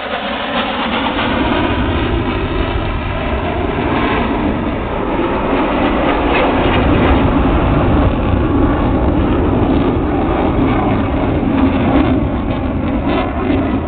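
Jet fighter engines, a loud, steady rumbling roar.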